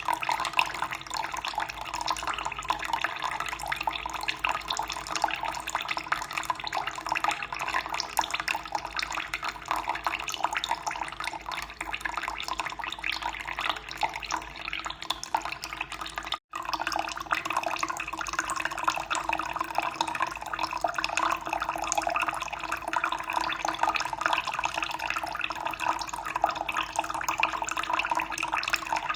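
Running water, a steady splashing trickle. It cuts out for an instant just past halfway, then carries on the same.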